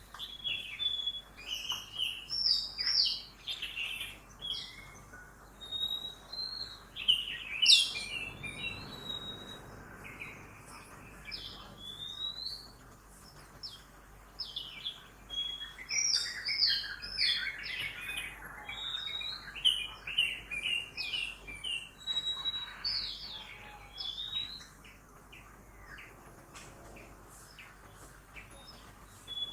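Several birds singing together in a busy dawn chorus: quick chirps, short whistles and trills that overlap throughout. Faint city traffic noise swells underneath twice.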